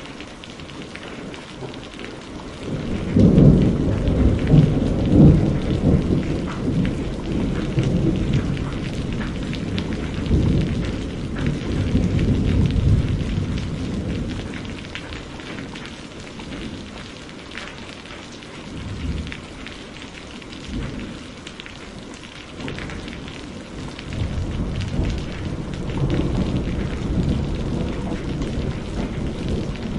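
Steady rain with rolling thunder: a long, deep rumble starts about three seconds in and fades slowly over some ten seconds, and a second rumble builds near the end.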